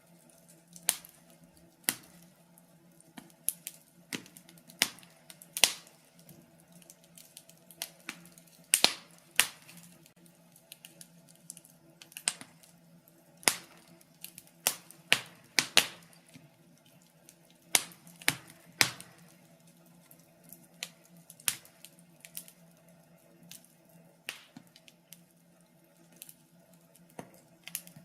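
Wood fire crackling in a fireplace: irregular sharp pops and snaps, some loud, at uneven intervals, over a faint steady low hum.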